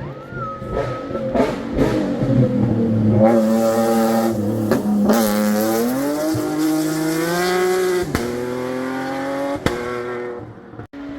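Rally car engine revving hard as the car accelerates, the note climbing several times through the gears and broken by a few sharp cracks, then falling away near the end.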